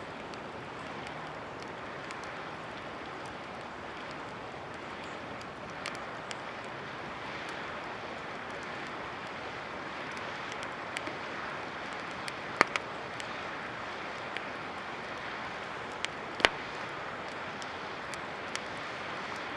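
Wood campfire crackling with scattered small ticks and two loud sharp pops, about two-thirds of the way in and again near the end, over a steady rushing hiss.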